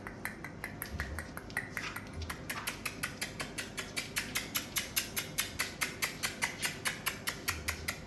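Rapid, even clicking, about five sharp clicks a second, getting louder through the middle and easing again toward the end.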